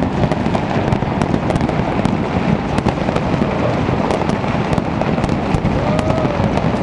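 A dense, continuous barrage of fireworks and firecrackers: countless overlapping bangs and crackles with no break.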